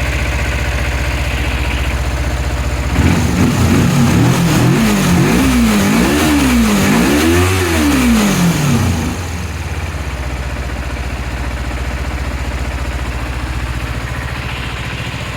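Kawasaki ZZ-R250's parallel-twin four-stroke engine idling, then revved several times in quick rising-and-falling blips for about six seconds, and settling back to a steady idle.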